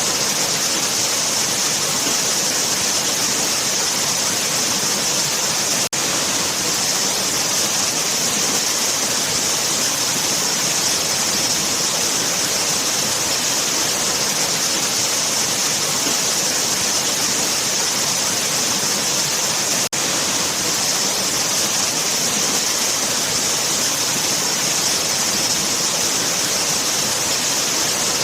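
Waterfall rushing steadily, a constant hiss of falling water with a bright, high edge. The level drops out for an instant twice: about six seconds in and again about two-thirds of the way through.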